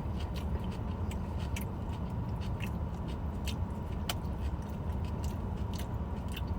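Someone eating coleslaw: scattered small clicks and crunches of a fork, container and chewing, over a steady low rumble.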